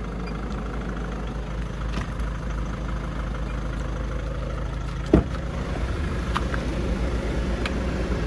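A steady low engine hum like an idling car, with a single sharp knock about five seconds in.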